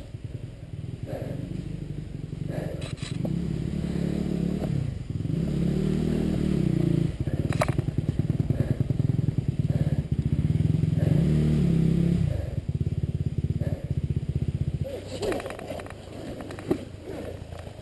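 Two-stroke dirt bike engine, a Honda CRM250RM, running and being revved in several swells up and down, then dropping away to a quieter level about fifteen seconds in. A few sharp clicks or knocks stand out over the engine.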